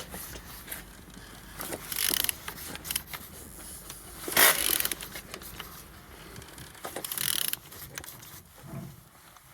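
Renault K9K diesel engine being turned over by hand with a wrench on the crankshaft: repeated ratchet clicks and metallic scraping strokes, a few seconds apart. The engine turns freely, with compression on every cylinder.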